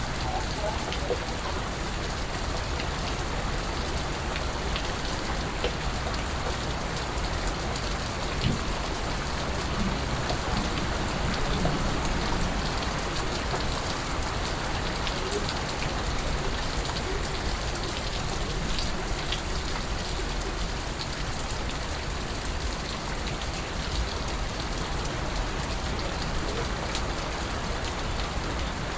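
Steady rain falling, an even hiss with scattered individual drops and drips ticking through it.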